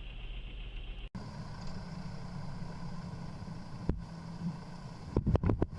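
Steady vehicle running and road noise picked up by a dashcam, with an abrupt change of sound about a second in. Near the end comes a quick burst of five or six loud knocks.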